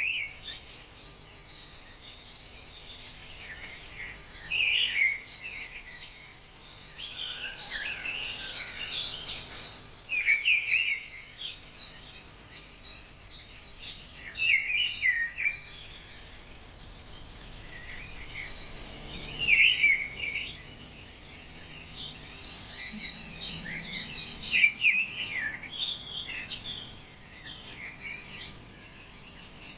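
Birds chirping and singing, with one loud chirping phrase repeating about every five seconds over a steady chatter of higher chirps.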